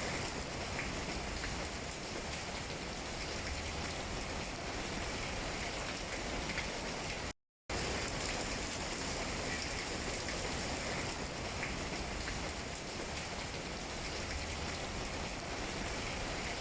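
Steady rain falling on tree leaves: an even hiss with faint scattered drip ticks. About seven seconds in it cuts out to silence for a split second, then resumes.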